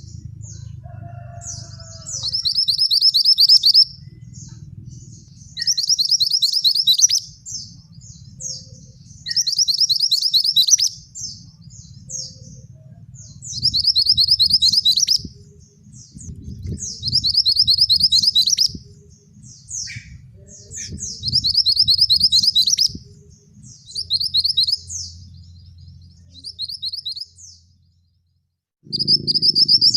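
Male mantenan singing: a loud, rapid, high-pitched trilled phrase repeated about every three to four seconds, with short chips between phrases, over a low steady rumble.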